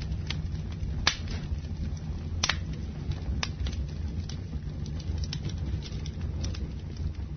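Campfire burning: wood crackling with irregular sharp pops over a steady low rumble.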